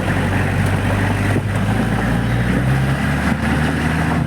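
Jeep engine running with a steady low hum, its pitch shifting slightly partway through.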